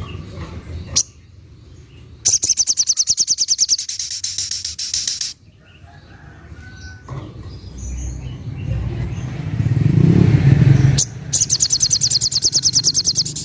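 Little spiderhunter (sogok ontong) singing its rapid 'tembakan' burst: a fast, even rattle of sharp high notes, roughly a dozen a second, lasting about three seconds and starting about two seconds in, then again near the end. A low rumble rises between the two bursts.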